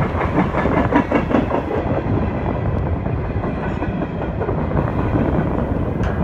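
Freight train's tank cars and covered hopper cars rolling past at speed, their steel wheels clicking and clattering over the rail joints.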